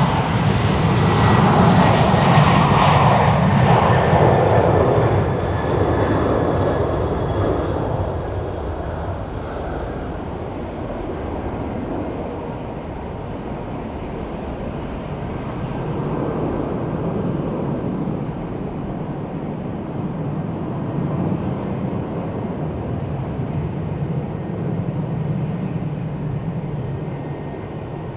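Jet airliner's engines passing close by: loudest in the first few seconds, with a faint whine that slowly falls in pitch, then easing into a steadier, quieter rumble as the aircraft moves away.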